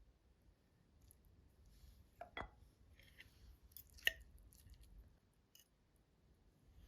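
Quiet kitchen handling sounds: faint rustling with two brief clinks or knocks, about two and a half seconds and four seconds in, the second the sharper.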